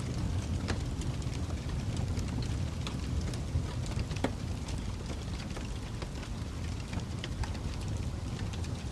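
Fire crackling: scattered sharp pops and snaps over a steady low rumble, with one louder pop about four seconds in.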